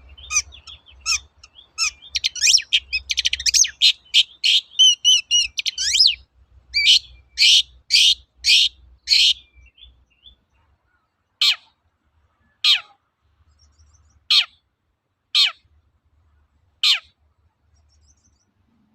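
Long-tailed shrike singing. It opens with a fast, varied run of chattering notes and trills, then gives four harsh notes in quick succession. After that come five sharp calls, spaced a second or more apart, each sweeping steeply down in pitch.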